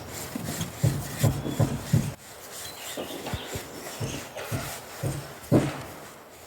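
Bricklaying work on a brick chimney: irregular scraping and knocking as bricks and mortar are handled, with one sharper knock about five and a half seconds in.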